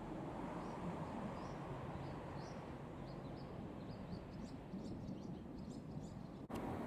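Small birds chirping repeatedly over a steady low outdoor rumble, the chirps growing busier midway; the sound drops out abruptly for an instant near the end.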